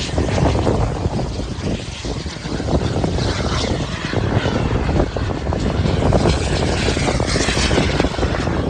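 Large radio-controlled model airplanes flying overhead, their engines running continuously and rising and falling in loudness as they pass.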